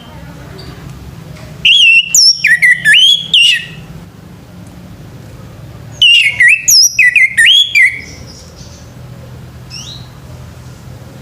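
Male orange-headed thrush singing: two loud phrases of quick slurred whistles, each about two seconds long, the first shortly after the start and the second about six seconds in. A faint steady low hum sits beneath.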